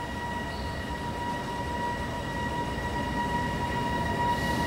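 GTS Rail E494 electric locomotive heading a freight train, approaching and running past along the platform, its rumble growing steadily louder. A steady high whine runs underneath.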